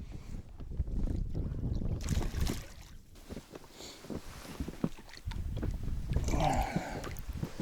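Wind buffeting the microphone in an open boat, with scattered knocks and rustles of handling, and a short wavering pitched sound near the end.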